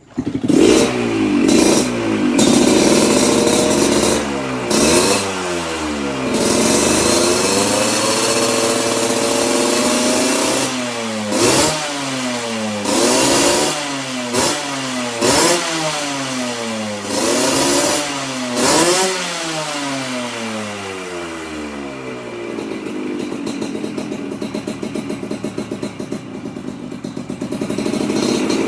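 Yamaha RX-King two-stroke motorcycle engine through a stainless Cobra under-body aftermarket exhaust, being revved: a few long revs first, then about six quick throttle blips, then settling to a steady idle.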